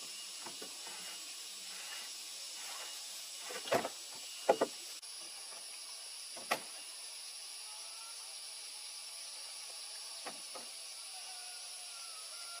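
A few short, sharp knocks over a steady high hiss. The loudest come about four and four and a half seconds in, with single ones at six and a half seconds and near the end.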